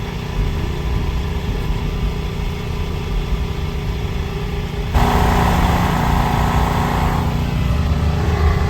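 Car engine idling steadily, with a sudden louder, noisier layer joining about five seconds in.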